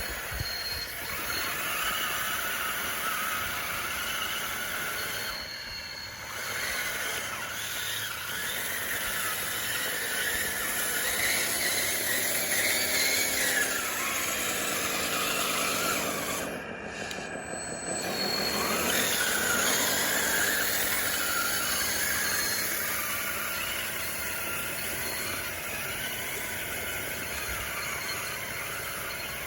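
DXR2 RC bulldozer's motors and tracks whining and squealing, the pitch rising and falling as it drives and pushes.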